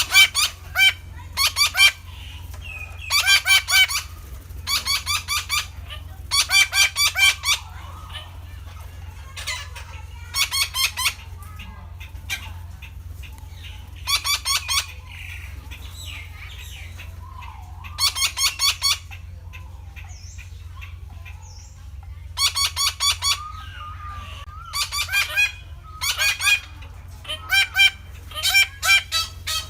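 Red-breasted parakeets calling: bouts of loud, harsh, rapidly repeated notes, each bout under a second, again and again, over a steady low hum.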